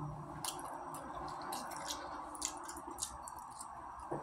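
A person chewing a mouthful of pan-fried chicken potstickers: soft, wet mouth clicks scattered through, over a steady room hum.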